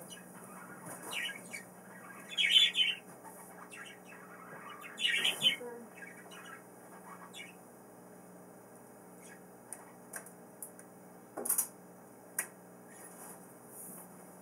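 Pet birds squawking and chirping in short bursts, loudest about two and a half and five seconds in, then scattered chirps.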